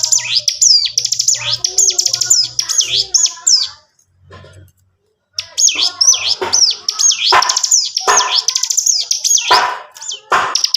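Hill prinia (ciblek gunung) singing loudly in a rapid, continuous stream of high chirps and quick falling whistles with drill-like trills. The song breaks off for about a second and a half near the middle, then resumes.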